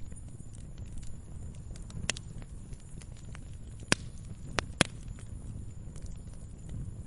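Wood campfire burning with a steady low rumble and scattered sharp crackles and pops, the loudest about four seconds in and two close together near five seconds.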